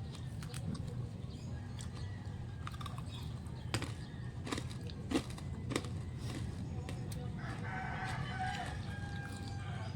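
A rooster crowing once, a single call of about two and a half seconds near the end. Earlier there are several sharp clicks over a steady low hum.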